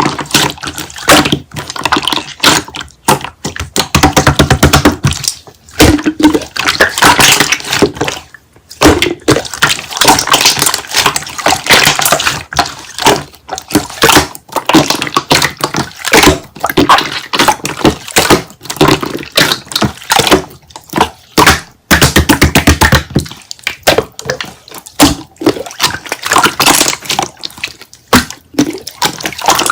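Slime being squeezed and pressed by hand, making dense runs of wet clicks, crackles and pops.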